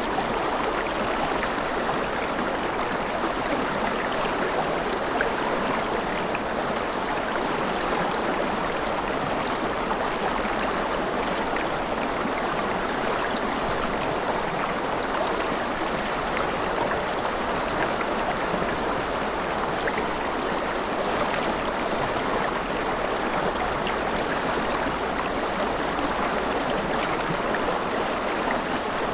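Steady splashing and gurgling of flowing river water, an even rush with no single event standing out.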